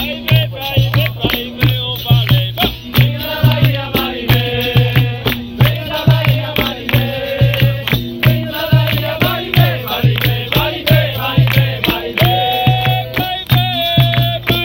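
Capoeira roda music: a hand drum beating a steady rhythm several strokes a second, with rattles and percussion clicks and a voice singing over it.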